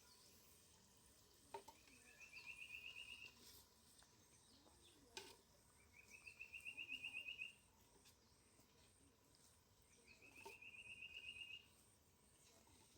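Faint rapid trill from a small animal, made of quick even pulses and rising slightly in pitch, repeated three times about four seconds apart. A few faint clicks fall between the trills.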